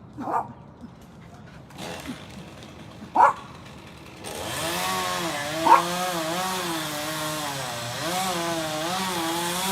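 Chainsaw engine starting about four seconds in and running at high revs, its pitch dipping and rising as it cuts into wood. A few short sharp sounds come before it.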